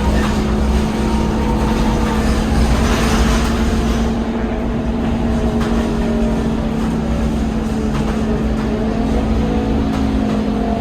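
Scania K230UB city bus under way: a steady engine and drivetrain hum with a held whine, over road noise that eases a little about four seconds in.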